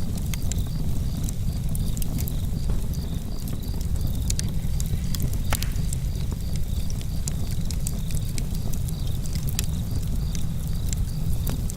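Campfire burning with a deep, steady rumble and scattered sharp crackles and pops, one louder pop about halfway through. Crickets chirp in an even, regular rhythm over it.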